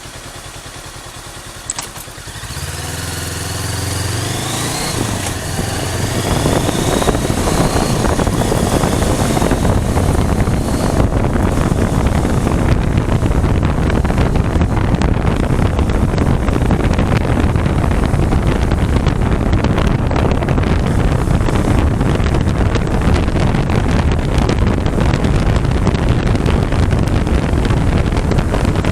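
A 400cc motorcycle engine idles quietly, then a click and the engine pulls away, its pitch rising as it accelerates. From about six seconds in, wind buffeting the microphone at speed swamps the engine in a loud, steady rush.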